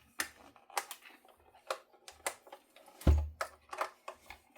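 Irregular clicks and taps of guitar parts and tools being handled on a workbench, with one louder thud about three seconds in.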